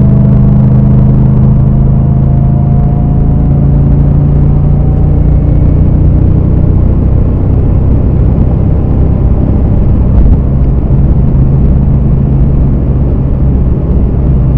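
BMW E39 M5's 4.9-litre V8 running hard on track, heard from inside the cabin: a loud, steady engine note whose pitch edges up slightly over the first few seconds, then holds.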